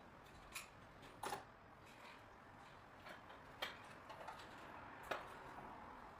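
Faint, irregular clicks and light knocks, about six of them with uneven gaps, against a quiet background, like small hard parts or tools being handled.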